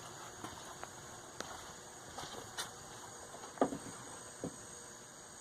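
Faint scattered ticks and light taps, the loudest about three and a half seconds in, over a steady high-pitched insect chirring.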